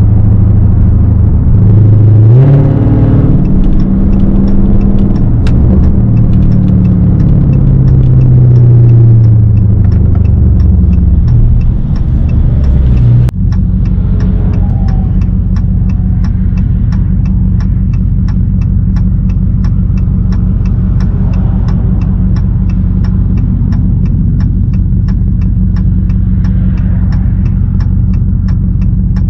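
Straight-piped Dodge Hellcat's supercharged 6.2-litre Hemi V8 revs up about two seconds in, then falls and shifts in pitch. From about halfway it settles into a steady low drone with a fast, even ticking over it.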